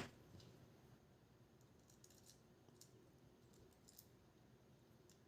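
Near silence with a few faint, scattered clicks of small tools and tiny parts being handled, as a small screw is fitted into a GoPro Hero 5 Black's housing.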